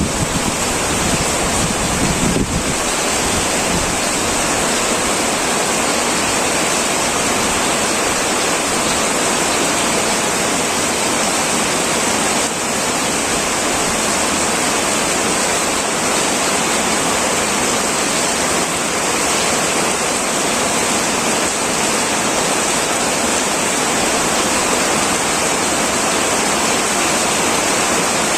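Heavy rain on a tin roof, a steady dense hiss. A low rumble underneath dies away about two and a half seconds in.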